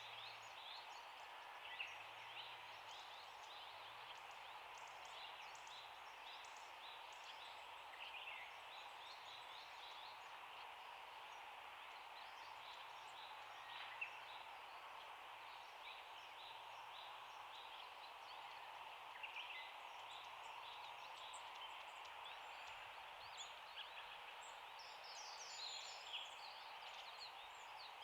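Long-tailed tits calling with short, thin, high notes, scattered and growing busier near the end, over a steady hiss of background noise.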